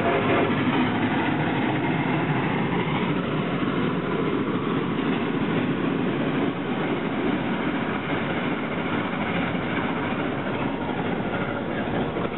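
Steam train in motion, heard from aboard a passenger car: a steady rumble and clatter of wheels running on the rails, with geared Shay locomotive No. 6 working close by.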